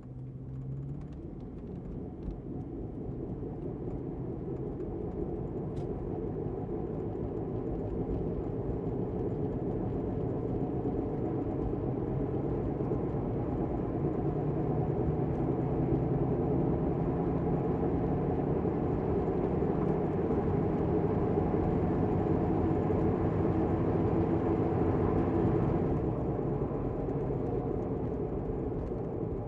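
Car driving with a bad wheel bearing: a steady low drone and growl that builds as the car picks up speed, then eases slightly near the end. The drone rises with wheel speed, the sign of a worn wheel bearing.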